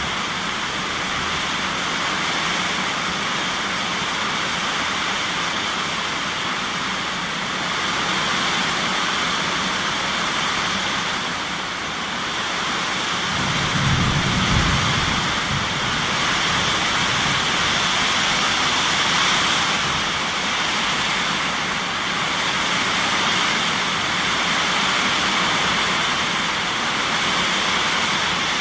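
Steady heavy rain, with one low rumble of thunder about halfway through, the loudest moment.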